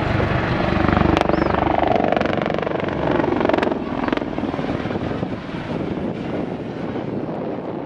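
Helicopter flying past, its rotor and turbine sound loudest in the first half and fading after about four seconds.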